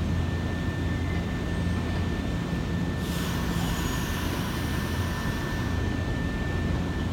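Nankai electric train at a station platform: a steady low hum with a thin high tone, and a hiss that comes in suddenly about three seconds in and fades out over the next three seconds.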